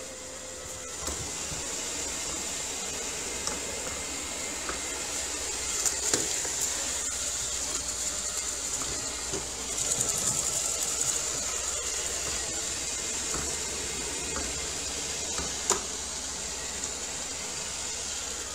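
ILIFE W90 cordless wet-dry floor cleaner running steadily, its motor giving a high hiss over a low hum, with a few light knocks, one about six seconds in and one near the end.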